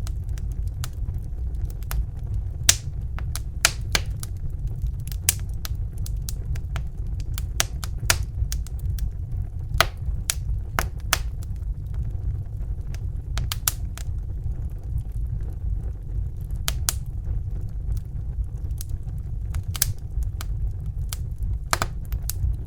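Crackling fire: irregular sharp snaps and pops, several a second at uneven spacing, over a steady low rumble.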